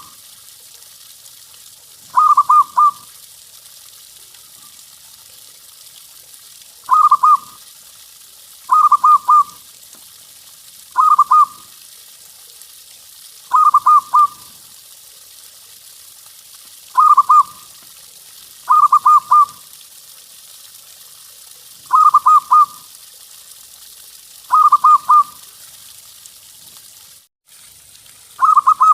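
Zebra dove (perkutut) cooing in short phrases of three or four quick notes, repeated every two to three seconds, about ten phrases in all. Near the end, after a brief break in the sound, a longer run of notes begins.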